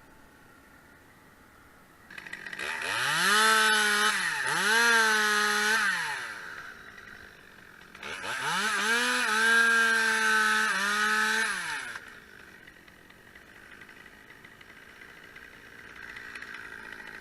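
Two-stroke chainsaw revved up twice to full throttle for a few seconds each, its pitch dipping briefly mid-run as it loads in the cut, then dropping back to a lower steady running in between and afterwards.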